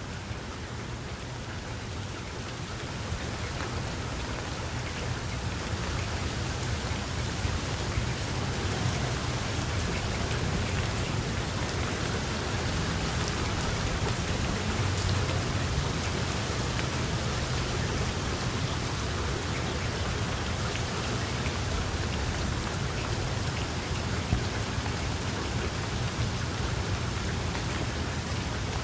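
Steady heavy rain falling on surfaces, a dense patter of drops that grows louder over the first few seconds. A low rumble runs underneath and is strongest about halfway through.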